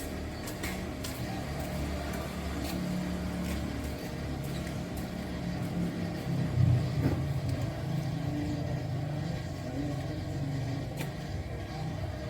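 Garage door opener's electric motor running steadily as it drives an overhead pull-up garage door during a test after installation, with a few light clicks.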